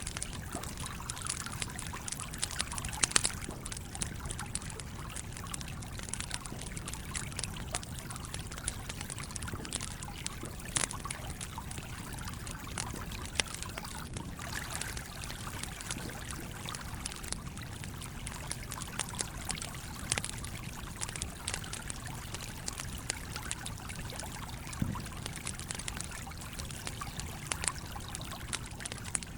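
A wood campfire crackling, with frequent sharp pops, over the steady trickling flow of a stream.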